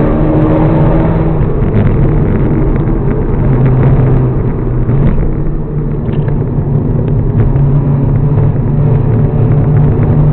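Mazda RX-7 FD3S's twin-turbo 13B rotary engine running while the car drives, a steady drone whose pitch shifts slightly with speed.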